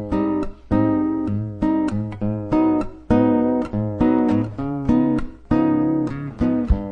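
Acoustic guitar strumming chords in a steady rhythm, a new chord struck about every half second.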